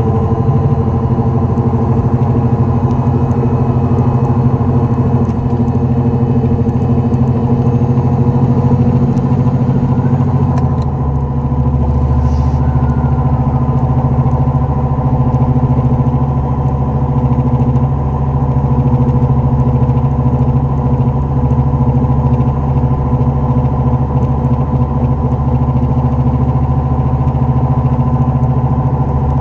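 2004 Dodge Neon SRT-4 running with a steady hum and drone, the noise of a bad wheel bearing. The lowest part of the drone shifts about ten seconds in.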